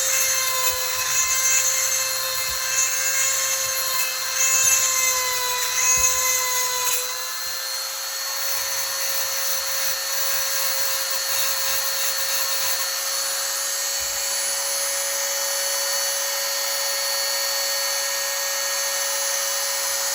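Electric chainsaw sharpener's small grinding stone running with a steady high whine. For the first several seconds it grinds the chain's teeth in short repeated passes, about one a second, and its pitch sags slightly under load. After that it spins freely at an even pitch.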